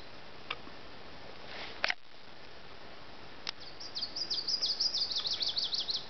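A songbird singing in the second half: a fast run of high chirps, each one falling in pitch, over a steady outdoor background. A few faint clicks come earlier.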